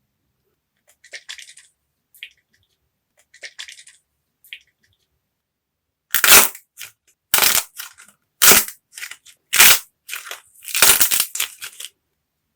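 Dried modelling clay being cracked and crushed. Faint crackles come first, then a run of loud, sharp crunches from about halfway in, the last one drawn out.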